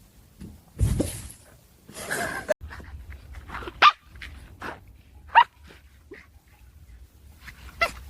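A dog barking: a handful of short, separate barks a second or more apart.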